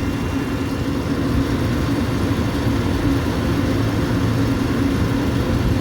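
Exhaust fan running steadily: an even hum from the fan motor and a constant rush of air from the blower.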